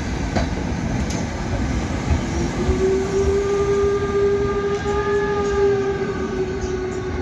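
Steam-hauled train running with a low, even rumble; about two seconds in a long, steady whistle starts and holds for about five seconds.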